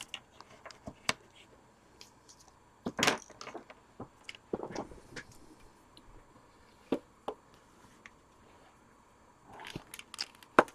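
Scattered light taps and clicks of small objects being handled on a desk, a few of them louder, about three seconds in and again near the end.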